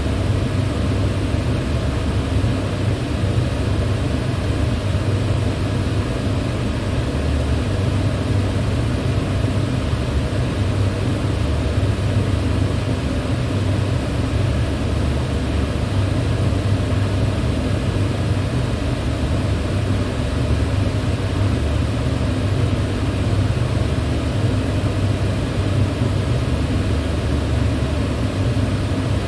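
Electric fan running steadily: an even, deep rush of moving air with little treble, unchanging throughout.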